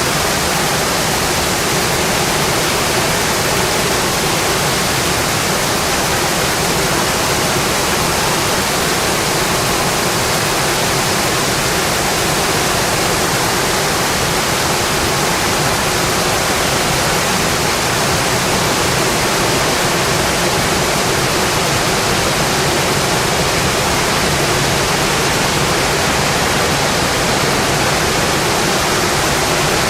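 Steady rain on a windowpane, a dense even hiss with no let-up.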